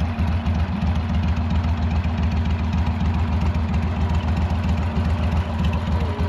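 Boat motor running steadily, a low even hum with a fast pulse.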